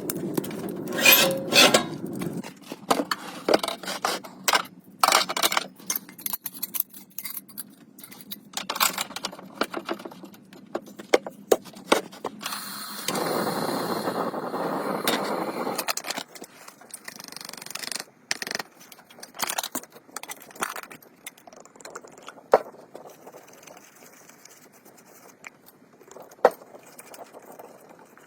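Irregular clicks, knocks and scrapes of objects being handled, with a steadier rushing noise for about three seconds in the middle.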